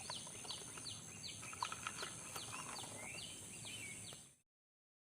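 A bird calling with short downward chirps repeated about three times a second, over a steady high-pitched hiss and a few faint clicks. The sound cuts off abruptly near the end.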